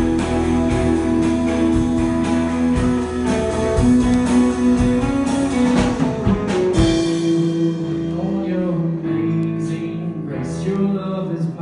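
Live worship band playing, with guitar and drums under held chords. The drum hits thin out about seven seconds in, leaving a quieter passage.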